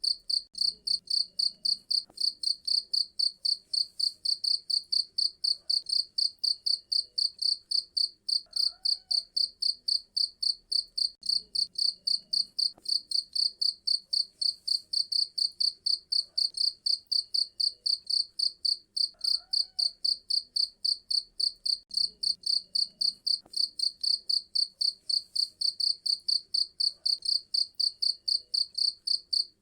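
A cricket chirping steadily: a shrill, even train of chirps at about four a second, unbroken throughout.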